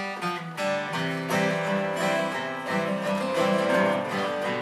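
Acoustic guitar playing an instrumental introduction to a country-folk song.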